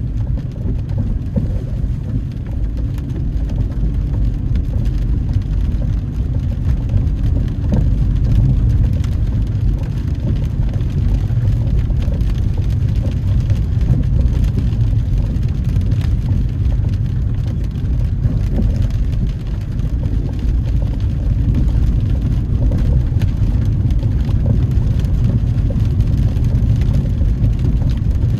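Steady low rumble of a car's engine and tyres on a wet road, heard from inside the cabin while driving in the rain, with faint scattered ticks.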